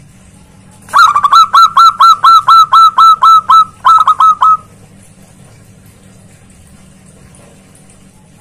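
Zebra dove (perkutut) calling loudly: a rapid run of short, hooked notes, about five a second. After a brief break, a few more notes follow before it stops about halfway through.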